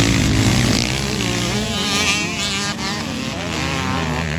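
Dirt bike engines running and revving, with several engines at different pitches rising and falling at once.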